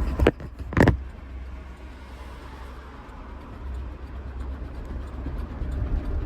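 The knocking 5.3L V8 of a GMC Yukon XL running on the road, heard from inside the cabin, with a failing connecting-rod bearing. Two sharp knocks stand out in the first second, then a quieter steady drone with faint regular ticking.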